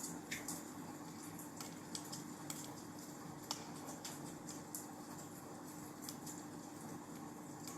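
Wood fire crackling in a fireplace: irregular sharp pops and snaps, a few a second, over a faint steady hum.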